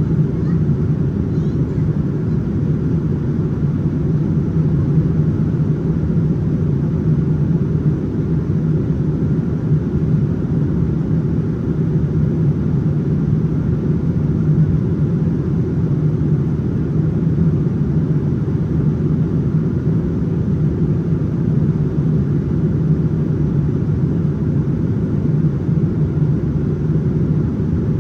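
Steady cabin noise inside a Boeing 787-9 airliner in flight: a constant low rumble of airflow and engines heard from a window seat.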